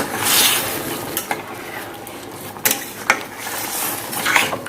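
Utensil scraping and knocking against a cooking pan as a chicken curry is stirred after water has gone in for the gravy, with a hiss in the first second and several separate knocks after it.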